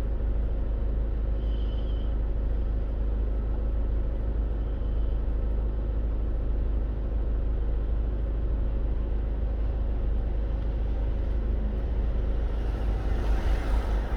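Steady low rumble of a car on the move, engine and road noise heard from inside the cabin. A rising hiss comes in near the end.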